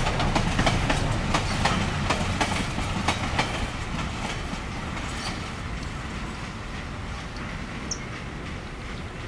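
Empty GDE iron-ore gondola wagons rolling past on the track, their wheels clattering with sharp irregular knocks over the rail. After about four seconds the knocks thin out into a steadier rumble that slowly fades as the train draws away.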